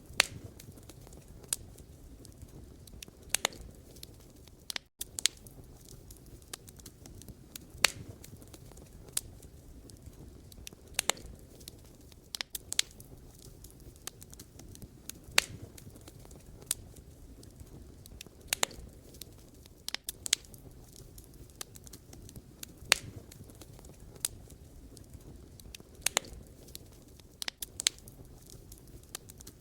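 Wood campfire burning: irregular sharp crackles and pops of burning logs over a steady low rumble of the flames.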